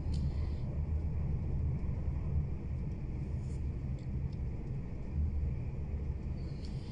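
Steady low rumble of a passenger train running at speed, heard from inside the carriage: wheels on the track and the carriage's running noise.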